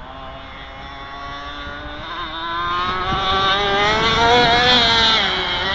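MTC twin-cylinder engine driving a catamaran boat at speed. Its pitch climbs steadily and it gets louder through the middle, then it eases off slightly near the end.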